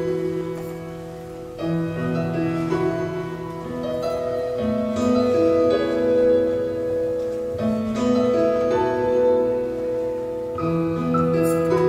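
Slow instrumental music led by piano or keyboard, with sustained chords changing about every three seconds.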